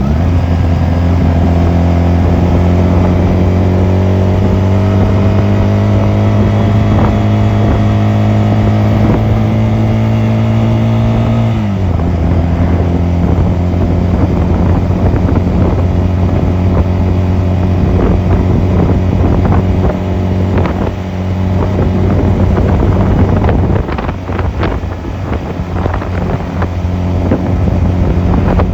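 Honda 250cc motorcycle engine running under way, its pitch climbing slowly for about eleven seconds, then dropping suddenly and holding steady for the rest. Wind noise on the microphone.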